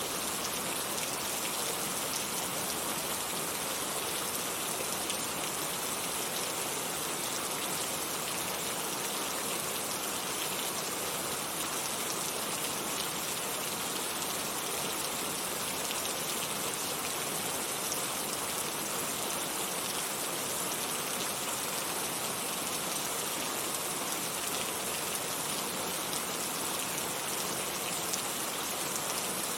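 Heavy rain falling steadily: an even, unbroken hiss of dense drops, strongest in the upper range, with faint patter of individual drops.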